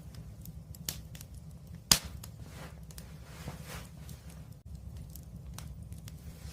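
Wood fire crackling in a fireplace, with irregular small pops and one sharp loud pop about two seconds in, over a steady low rumble.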